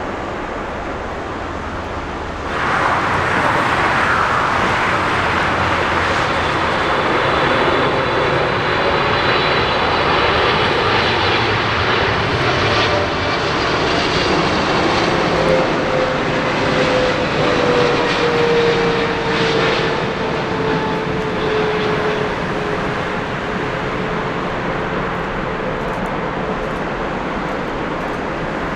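Jet airliner engines passing close by. The noise jumps up suddenly about two and a half seconds in and stays loud, with a whine that slowly falls in pitch as the aircraft goes past, then eases off gradually near the end.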